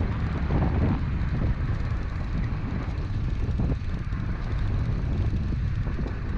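Wind buffeting the microphone of a body-worn action camera: a steady low rumble.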